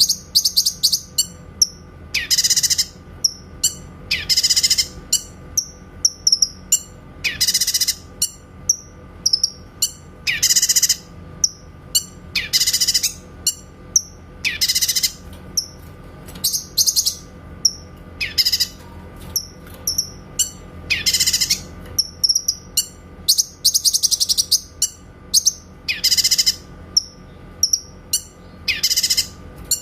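Cucak kinoy singing clear, sharp, high-pitched 'shot' calls (tembakan): short bursts of song about every two seconds, with quick chirps between them.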